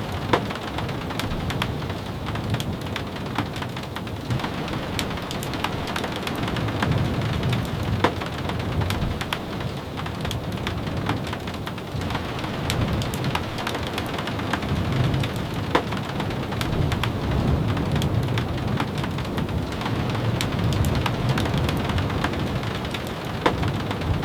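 Steady rain with a low rumble under it and frequent scattered sharp ticks.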